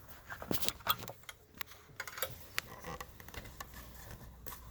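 Light, irregular clicks and taps of the hinged looper cover being opened on a Juki MO-3314 overlocker and the machine being handled.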